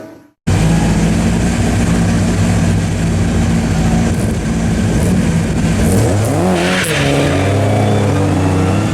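Ford Escort Mk1 rally car engine running hard at high, steady revs. About six seconds in the revs drop and then climb again, with a short hiss at about the same moment.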